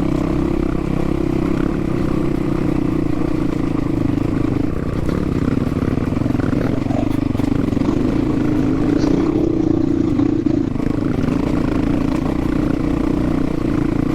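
Dual-sport motorcycle engine running steadily at an even pitch.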